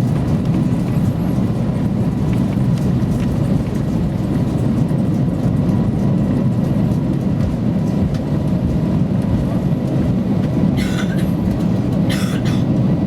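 Airbus A350-900 cabin noise while the airliner lands: a loud, steady, deep rumble. Two short hisses come near the end.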